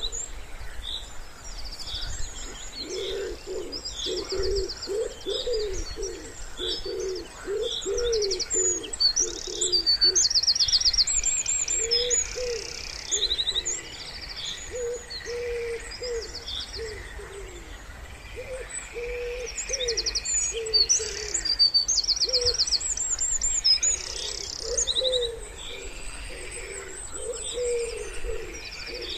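Wood pigeon cooing in repeated low phrases, with small songbirds singing high, quick chirps and trills over it.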